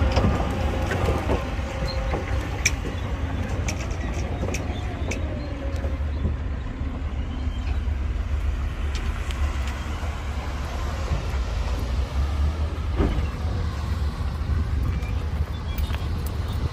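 Heavy diesel earthmoving machinery running with a steady low rumble, with a few sharp knocks and clanks along the way.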